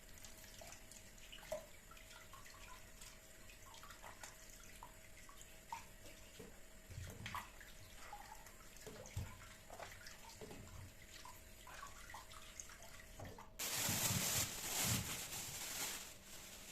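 Small knocks and clinks of things being handled at a kitchen sink, then a tap is turned on near the end and water runs hard for about two and a half seconds before easing off.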